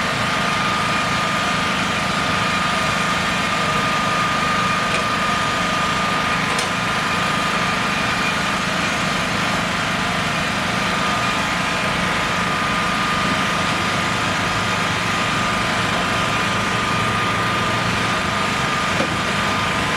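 An engine running steadily at a constant speed, with a steady high whine over it.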